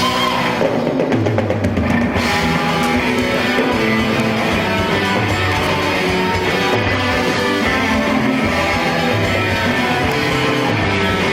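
A rock band playing live: distorted electric guitars and a drum kit in an instrumental passage with no vocals.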